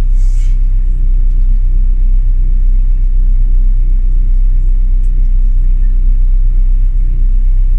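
Classic Mini's A-series four-cylinder engine, with points ignition, running steadily after a hard cold start.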